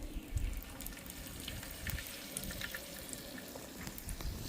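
Dried fish frying in hot oil in an electric pan: a steady sizzle with scattered pops and crackles, and a few low knocks in the first second.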